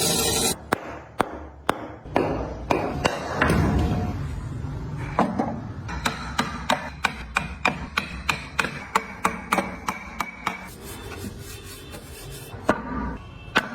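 Repeated hammer strikes on wood: sharp, irregular blows at first, then a steady run of about two to three strikes a second through the middle, and a few more near the end.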